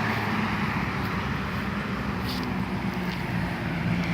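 Road traffic passing: a steady noise of car engines and tyres on the road.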